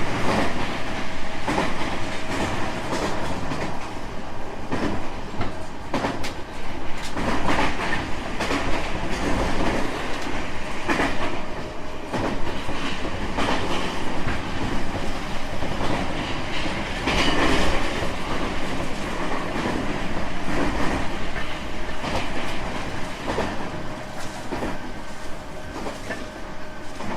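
JR West 225-5000 series electric multiple unit running on the line, heard from inside the car: a steady rumble with wheels clacking over rail joints and a faint steady tone from the running gear. The sound eases slightly near the end.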